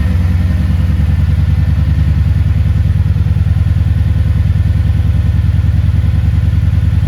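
The 2011 Kawasaki Vulcan 1700 Nomad's V-twin engine idling steadily, with an even, deep pulsing beat.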